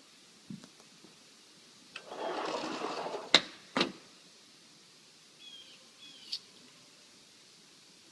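Faint short bird chirps over a quiet background. About two seconds in comes a rustling burst, followed by two sharp knocks, the loudest sounds, about half a second apart.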